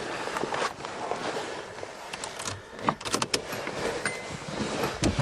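Car keys jangling and clicking as they are handled at the ignition of a 1992 Nissan Stanza before a cold start, with a short high beep about four seconds in.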